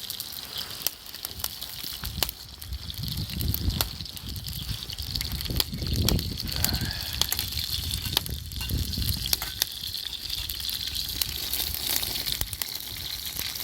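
Meat sizzling over a campfire, a steady hiss with scattered crackling pops from the fire and uneven low rumbling swells.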